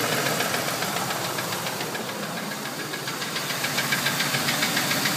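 2002 Ford Expedition's 4.6-litre V8 engine running with a rapid, even ticking, a possible knock or valve tap at 189,000 miles.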